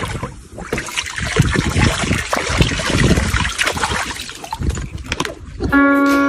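Water splashing and sloshing irregularly; it stops abruptly near the end, when piano music begins.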